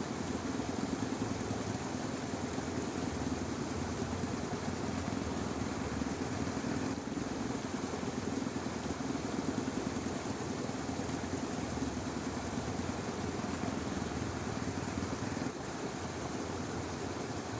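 Dense chorus of frogs calling together in a rice paddy, forming a steady, unbroken drone.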